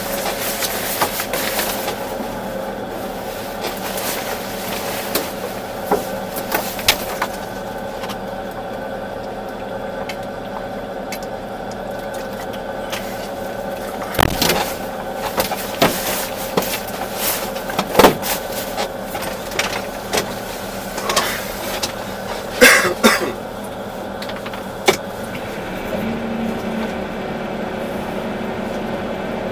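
Volvo EC380D excavator's diesel engine and hydraulics running steadily under work, with a steady whine over the engine drone. Scattered sharp knocks and clanks come through, most of them in the second half, and a lower steady tone sets in near the end.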